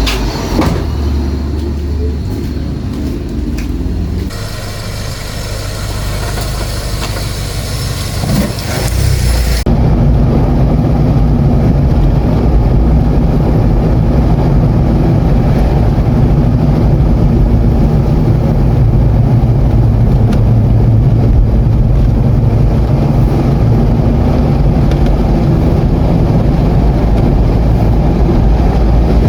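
A motor vehicle driving: steady engine and road noise, with abrupt changes in the sound about 4 and 10 seconds in, after which a louder low rumble holds steady.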